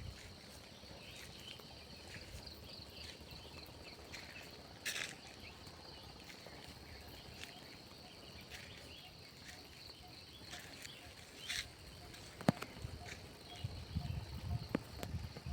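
Outdoor natural ambience: a steady high insect drone, with scattered short chirps and a few sharp clicks. A low rumble builds near the end.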